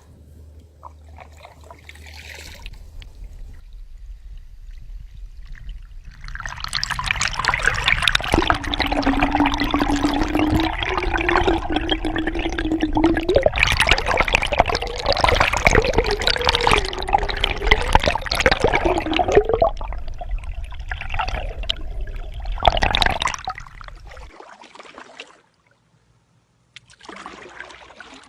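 Water pouring into a container for about seventeen seconds, starting around six seconds in. A tone under the splash steps upward in pitch as the vessel fills.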